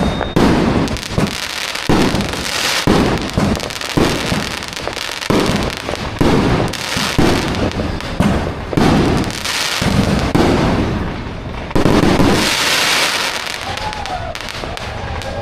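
Fireworks going off in a dense barrage, with sudden bangs about one or two a second over continuous crackling; the bangs thin out near the end.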